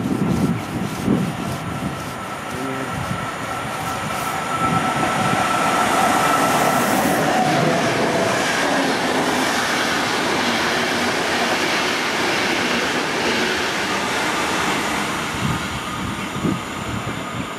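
Express passenger train hauled by an EU44 Husarz (Siemens ES64U4 Taurus) electric locomotive passing through at speed. A steady whine and rising rush as the locomotive comes up and goes by in the first few seconds, then the loud, continuous rush and rattle of the coaches, easing off near the end as the train moves away.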